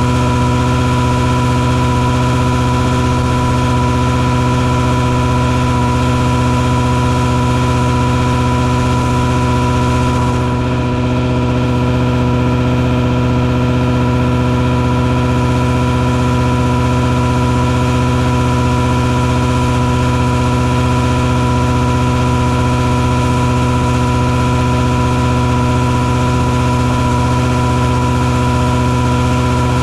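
Mosquito-fogging truck's engine machinery running steadily: a constant drone with a steady high whine over it. The upper hiss dims briefly about ten seconds in.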